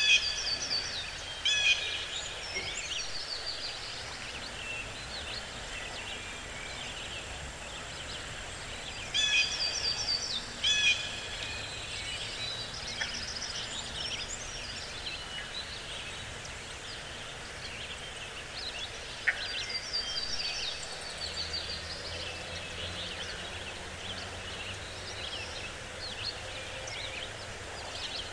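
Songbirds singing in forest, in several phrases of quick down-slurred high notes, loudest near the start and around ten seconds in, over a steady background hiss.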